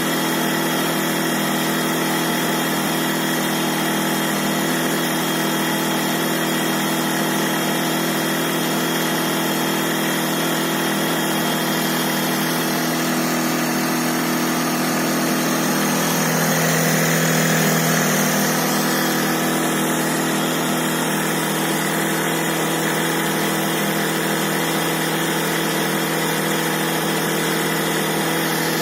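Electric air pump running steadily as it inflates an inflatable boat through its hose, a constant motor hum, briefly louder about two-thirds of the way through.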